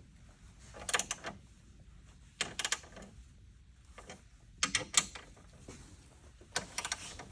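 Short clusters of sharp metallic clicks and clatters from hand tools and metal parts, about five bursts a second or so apart.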